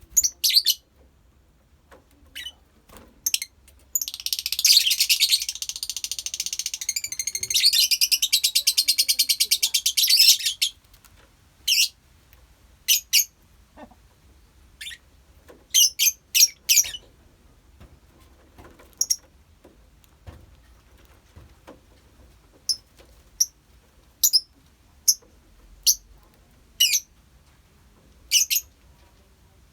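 Lovebirds calling: about six seconds of rapid, continuous high-pitched chattering, then short sharp chirps, singly and in pairs, with gaps between them.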